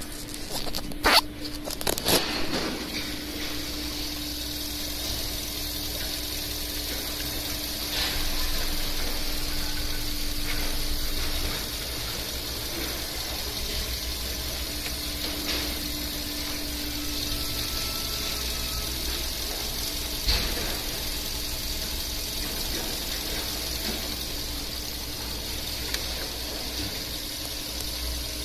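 Mazda ZY 1.5-litre inline-four petrol engine idling steadily, with a few sharp knocks in the first two seconds and one more about twenty seconds in.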